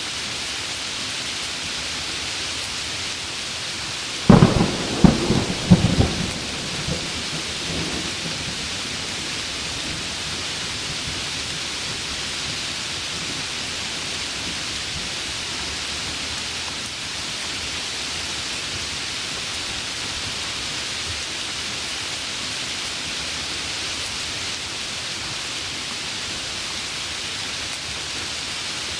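Steady heavy rain hissing, with a sharp crack of thunder about four seconds in that breaks into several claps over a couple of seconds and rumbles away a few seconds later.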